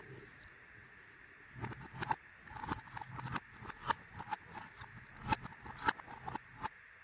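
Small plastic toy pieces being handled: a run of irregular light clicks and taps that starts about one and a half seconds in and stops shortly before the end.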